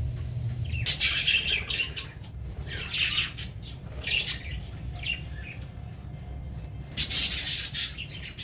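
Budgerigars chirping and chattering in bursts, loudest about a second in and again near the end, over a steady low hum.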